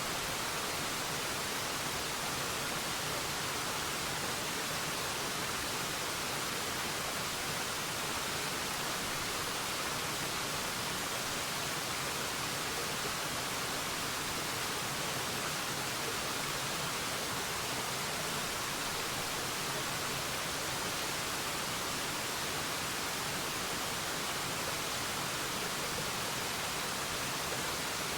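Waterfall: a steady, even rush of falling water with no change over time.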